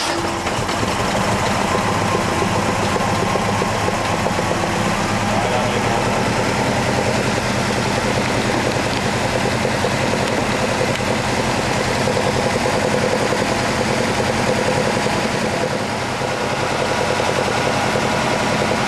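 Alfa Romeo Duetto Spider's twin-cam four-cylinder engine, fed by two Weber carburettors, idling steadily while being tuned.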